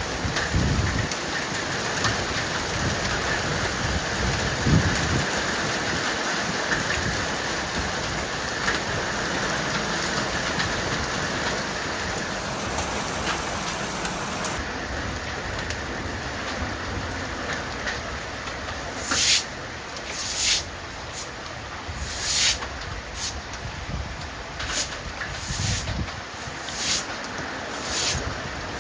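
Hailstorm: a steady hiss of rain and hail pelting down. In the last third, louder separate strikes come about once a second.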